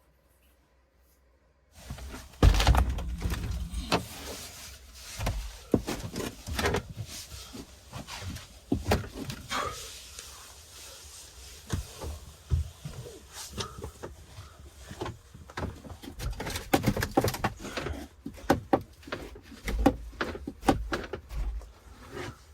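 Near silence, then about two seconds in a long run of irregular thuds, knocks and rattles as a snowed-in van's door is worked open against drifted snow.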